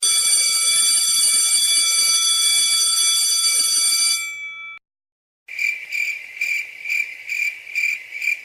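Electronic alarm tones: a steady, high buzzing tone held for about four seconds that fades out, then after a short gap a high beeping at about two beeps a second.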